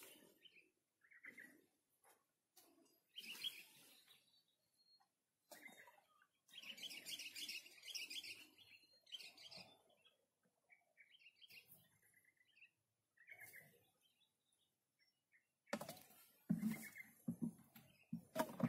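Small birds chirping on and off in short high calls, with a dense run of twittering a few seconds in. Near the end, close rustling and knocks.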